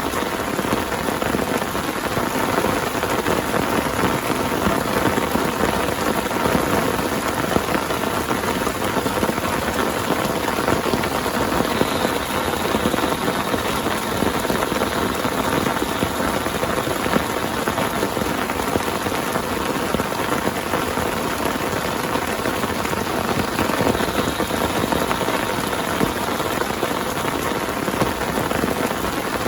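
Heavy rain falling steadily, a dense even hiss of countless drops that keeps up without let-up.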